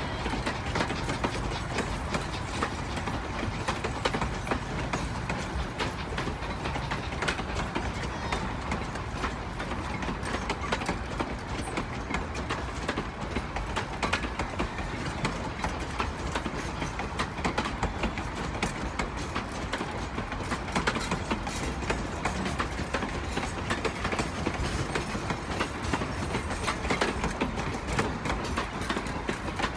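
Durango & Silverton narrow-gauge train rolling along the track: a steady running noise with many quick wheel clicks over the rails.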